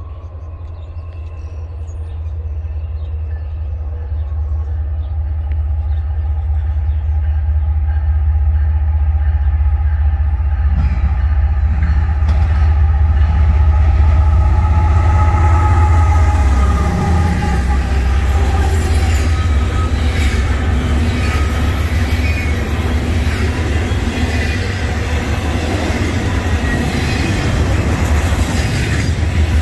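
Norfolk Southern GE ES44AC diesel locomotive approaching and passing, its engine rumble growing louder over the first several seconds and loudest about halfway through. It is followed by double-stack container well cars rolling past, with steady wheel rumble and clatter on the rails and thin high whines from the wheels.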